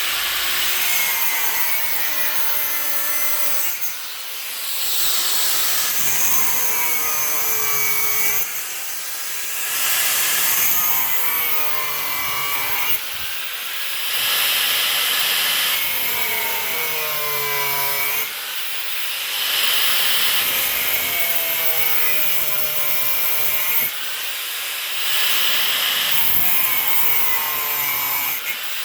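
Rhythmic scraping strokes of a hand tool, one about every two seconds. Many strokes carry a short squeal that falls in pitch.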